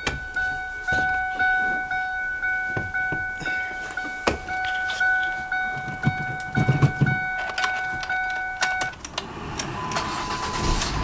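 Car's warning chime ringing a steady repeating two-tone ding, about two a second, among clicks and knocks of handling and keys. The chime stops about nine seconds in, and a low steady rumble comes in near the end.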